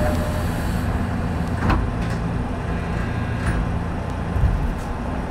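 Steady low hum inside a Nishitetsu electric commuter train standing at a station before moving off, with a few sharp clicks and one low knock.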